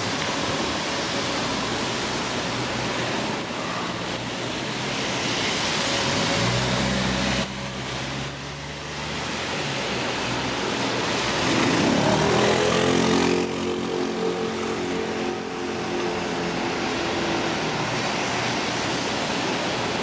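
Steady hiss of rain on a wet street, with motor vehicles passing. One engine is heard about six to seven seconds in, and a louder vehicle goes by about twelve seconds in.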